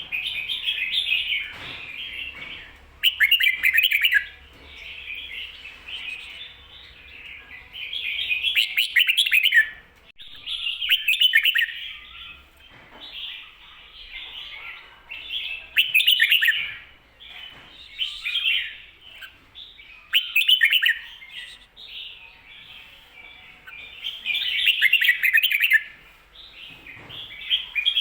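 Red-whiskered bulbul singing in repeated bright, chattering phrases, a loud phrase every few seconds with quieter warbling between. This is the 'ko-ta-ra' song sung with a doubled ending.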